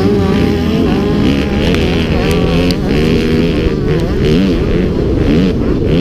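Several motocross bike engines running together, their pitch rising and falling as the riders open and close the throttle.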